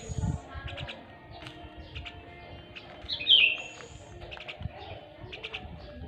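Bird chirping: a string of short, quick chirps, with one louder call about three seconds in that slides down in pitch.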